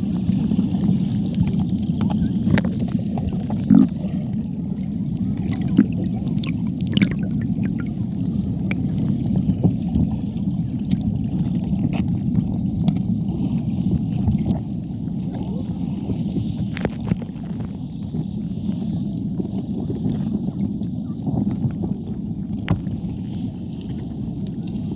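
Steady rushing of waterfall and river water, with scattered small sharp clicks.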